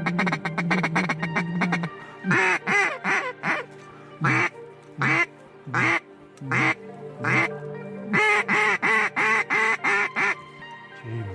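Loud mallard-style duck quacking: a fast run of short quacks, then single quacks spaced about half a second to a second apart, then another quick run of quacks near the end.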